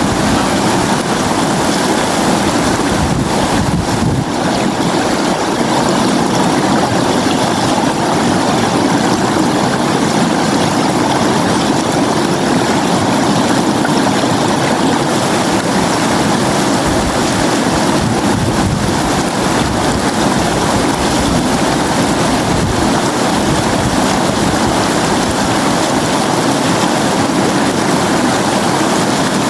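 River water flowing, a steady continuous rushing.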